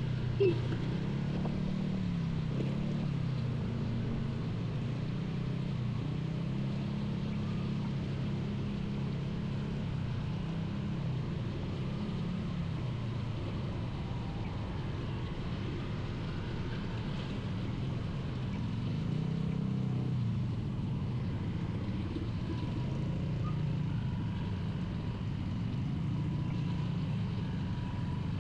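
Motorcycle engine running while riding, its pitch rising and falling repeatedly with the throttle over a steady rushing noise. A short sharp sound about half a second in.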